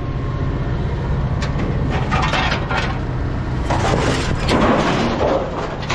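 Truck engine running low and steady under bursts of rattling and crunching from a trailer loaded with scrap metal, twice for a second or two.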